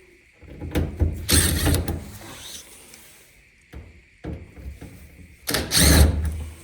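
Plastic lint filter of a Samsung dryer being pulled from its slot: two spells of scraping and rattling, one about a second in and a louder one near the end, with a few light clicks between.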